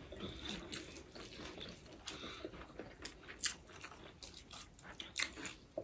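Close-up eating sounds: faint chewing with soft crunches and mouth clicks, a few sharper ones about three seconds in and near the end.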